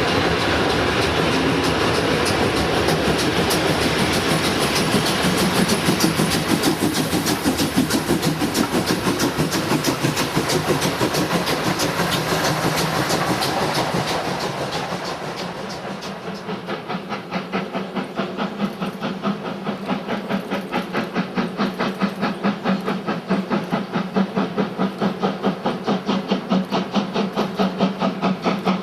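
Train rolling past close by, wheels clattering on the rail joints, then from about halfway the steady, rhythmic exhaust beats of a steam locomotive.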